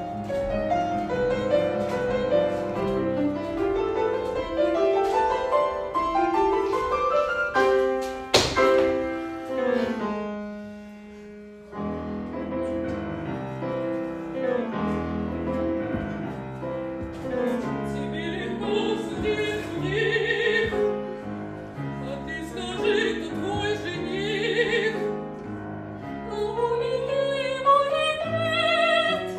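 Piano accompaniment to an operetta number: flowing runs with a sharp accent about eight seconds in, then dying away briefly before starting again. From about eighteen seconds an operatic voice sings with vibrato over the piano.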